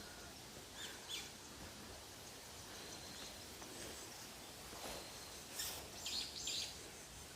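Faint forest ambience with scattered short bird calls and chirps over a steady background hiss, the loudest few coming in a quick cluster a little past halfway.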